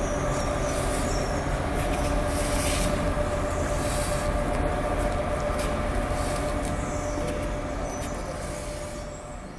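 Steady engine drone with a constant hum and a hiss over it, fading out near the end.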